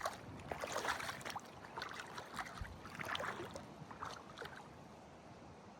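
Lake water splashing and sloshing in irregular short bursts, dying down over the last second or so.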